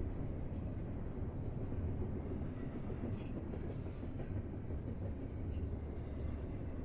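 Railroad cars rolling along the track with a steady low rumble. Brief high-pitched wheel squeals come a few times around the middle.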